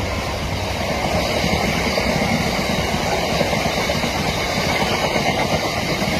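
Freight train behind a Class 66 diesel locomotive passing at speed: a steady rumble with a rapid, irregular clatter of the aggregate wagons' wheels on the rails.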